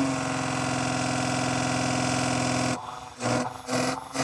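Hyundai Tiburon V6, with a pod air filter on the intake, held at high revs with its pitch flat, as if against a ceiling. The speaker suspects a faulty camshaft position sensor is stopping it from revving past about 3,000 rpm. The revs drop off about three seconds in, followed by two short blips of the throttle.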